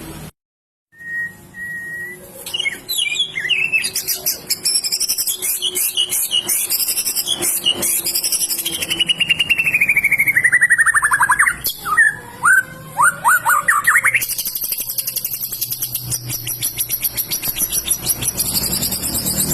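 A white-rumped shama (murai batu) singing loudly and energetically in full voice: a fast, varied string of whistles and chirps, a long falling trill around the middle, and rapid high-pitched trilling near the end. The sound drops out for about half a second just after the start.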